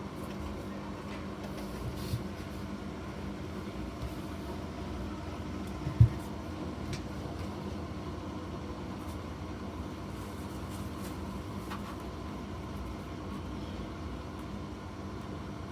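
Bosch front-loading washing machine running a wash cycle: a steady motor hum with a single low thump about six seconds in.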